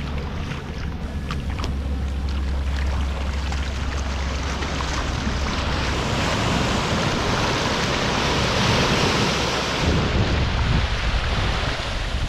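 Surf washing on the beach, a broad hiss that swells about two-thirds of the way through, with wind buffeting the microphone as a low rumble.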